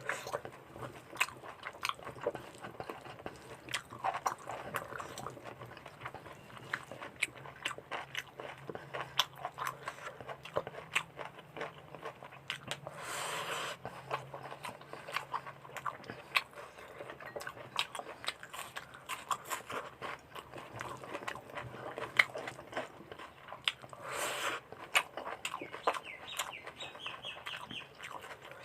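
Close-miked wet chewing and lip-smacking of a person eating mutton curry and rice, with many short clicks throughout. Two brief louder noisy sounds come about halfway and near the end.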